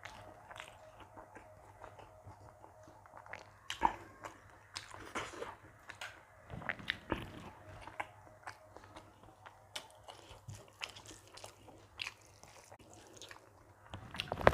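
Close-miked chewing of mouthfuls of rice, dal and vegetable sabzi: irregular wet mouth clicks and smacks, with a sharper click about four seconds in.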